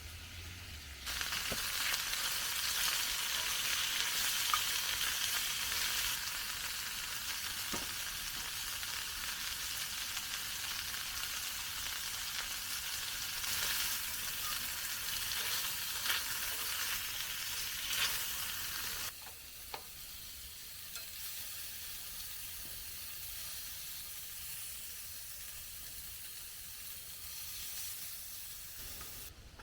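Food sizzling as it fries in a pan, with a few light clicks. The sizzle drops to a quieter level about nineteen seconds in.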